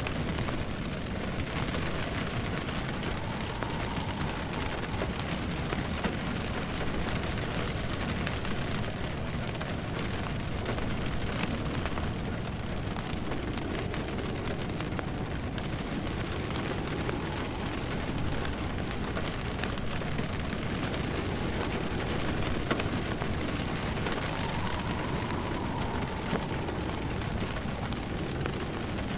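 Steady rain falling, mixed with a fireplace crackling in small irregular pops.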